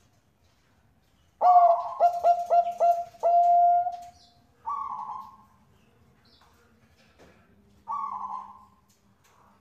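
A zebra dove of the Bangkok strain (perkutut bangkok) cooing. It gives one song phrase: a quick run of about six short stepped notes, then a long held note. Two shorter, softer, rougher notes follow.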